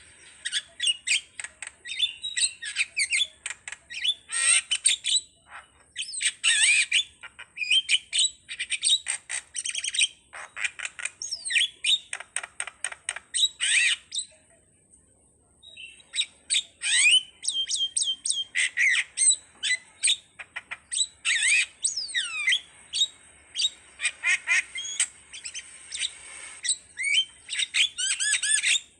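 Jalak (Asian starling or myna) singing a long, varied stream of chirps, gliding whistles and harsh squawks, pausing for about a second and a half about halfway through.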